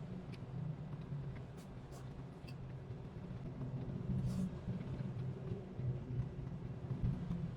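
A steady low hum with a few faint, light taps or clicks scattered through it.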